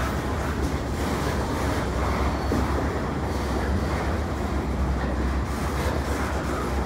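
Freight train of double-stack intermodal container cars rolling past below: a steady rumble of steel wheels on the rails.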